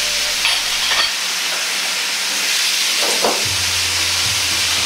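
Pork and vegetables sizzling loudly in a hot wok over high heat, just after the oyster-sauce seasoning mix has been poured in, stirred with chopsticks; a few short knocks sound against the wok.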